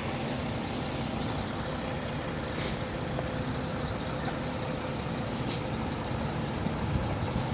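Steady running of idling trucks, with a short high hiss about two and a half seconds in and a fainter one near five and a half seconds.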